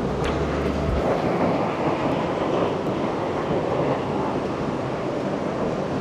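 Steady rushing roar of the Rhine Falls, a large waterfall, as a dense even noise of falling water. Wind rumbles on the microphone for about the first second, then drops away.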